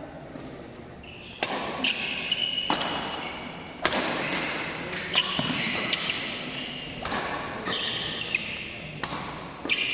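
Badminton doubles rally: a string of sharp racket strikes on the shuttlecock mixed with high shoe squeaks on the court floor, starting about a second and a half in after a quieter moment.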